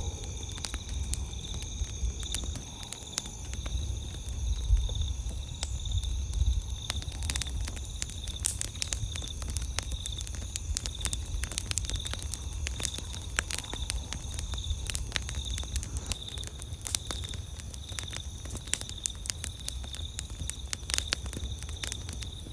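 Campfire crackling, with many sharp pops and snaps that come thicker from about a third of the way in, over a low rumble. Night insects trill steadily in the background as a high, even chirring.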